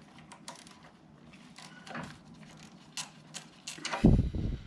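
Scattered light clicks and taps of hand tools and small metal nuts being handled while fasteners are taken off the motorcycle, with a louder low knocking rumble near the end.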